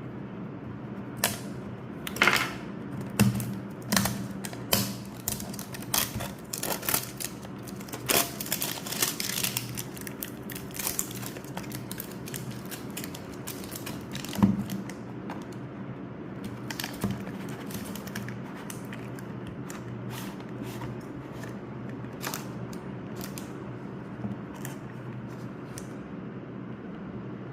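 Hands opening and unpacking a boxed set of attar perfumes: irregular clicks, taps and rustles of packaging, busiest in the first ten seconds and sparser after, over a faint steady low hum.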